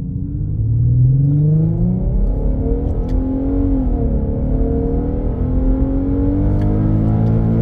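Infiniti Q50's 3.7-litre VQ V6 (HR) with a Remark axleback exhaust accelerating, heard from inside the cabin with the windows closed. The engine note rises for a few seconds, dips briefly about halfway through as if on a gear change, then pulls steadily again. It comes through muffled and low.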